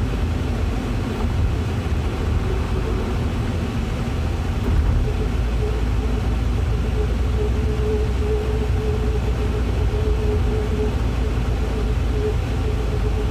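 A car running with a steady low rumble, with a faint humming whine that comes and goes over it and is clearest in the second half; the whine is the noise being recorded on this G20.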